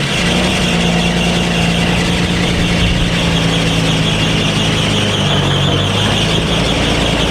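A motor vehicle's engine running steadily, with a high steady whine above it. The engine note drops about five seconds in and climbs again near the end.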